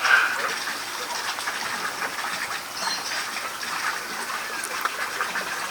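Steady rushing water with scattered short bird chirps and calls over it.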